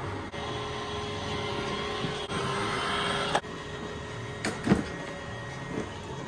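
Roomba robot vacuum running with a steady motor whir, a little louder in the middle. A couple of brief sharper sounds come about four and a half seconds in.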